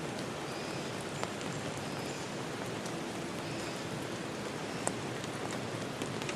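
Steady rain falling, with a few single louder drops. Faint short high bird chirps repeat about every second and a half.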